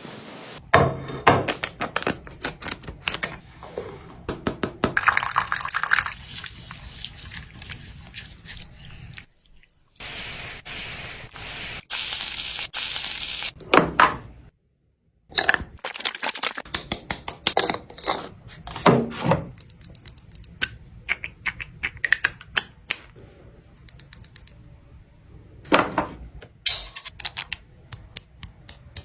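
Kitchen handling sounds: a run of clicks and knocks of containers being set down and handled, with stretches of running or pouring water, broken by short edit cuts.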